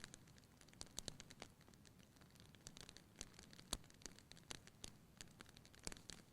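Wood fire burning in a fireplace: faint, irregular crackles and pops over a soft low rumble. The sharpest pop comes a little past the middle.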